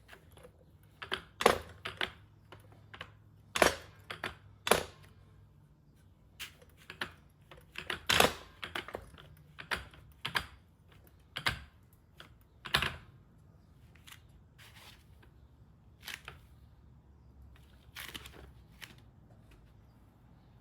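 Irregular sharp clicks and knocks of metal tools and suspension parts being handled, busier in the first half and sparser later, over a faint low hum.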